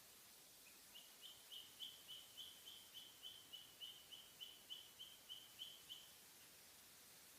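Cockatiel giving a faint, fast run of short, repeated high chirps, about three a second, for some five seconds.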